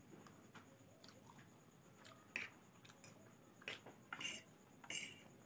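Quiet close-miked chewing of soft instant noodles, with a few sharp clicks and short scrapes of a metal fork and spoon against the plate in the second half.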